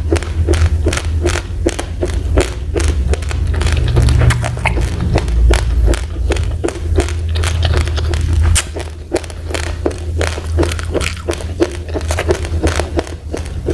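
Raw, uncooked rice grains being chewed close to the microphone: a dense run of sharp crunches, several a second, over a low rumble.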